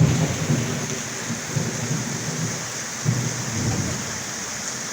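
Heavy rain pouring steadily, with low rumbles of thunder swelling near the start and again about one and a half and three seconds in.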